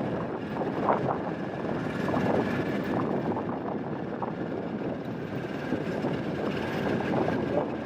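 Golf cart driving along a road: a steady running hum with road noise and a faint steady whine.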